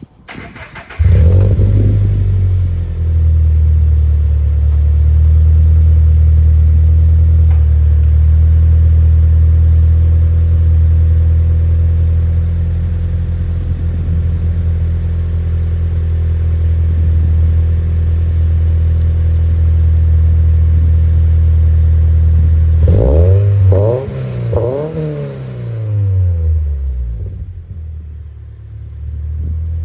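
Toyota 86 flat-four boxer engine with aftermarket headers and a cat-back exhaust, heard through the exhaust. It catches about a second in, flares, then settles into a steady, loud idle. Near the end it is blipped three times in quick succession and drops back to a quieter idle.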